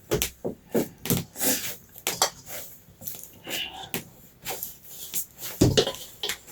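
A run of irregular knocks and clicks, a few each second.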